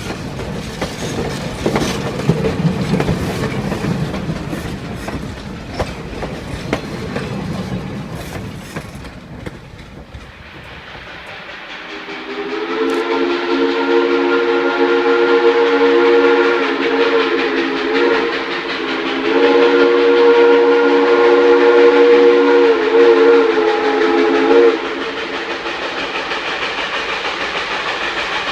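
Steam train passing with clattering wheels and sharp clicks on the rails. About halfway through, the locomotive's multi-tone chime whistle sounds two long blasts of several notes at once, over the running train.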